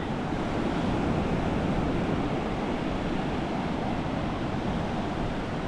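Ocean surf washing steadily onto the beach, with low wind rumble on the microphone.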